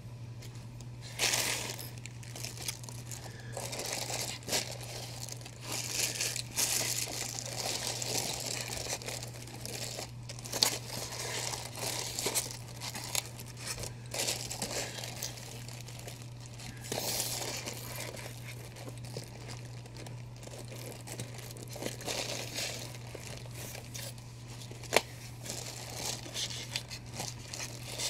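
Packaging rustling and crinkling in irregular bursts as a boxed statue is handled and packed away, over a steady low hum.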